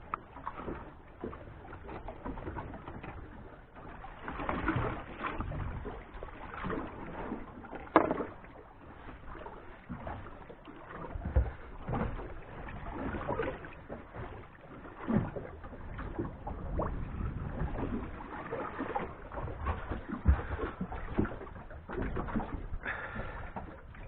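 Wind and water noise around a small fishing boat: irregular swells of rushing noise with low rumbles, and a few sharp knocks, the loudest about eight seconds in.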